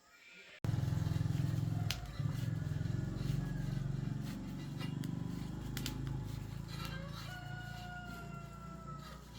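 A small engine running steadily, cutting in suddenly about half a second in. A rooster crows near the end.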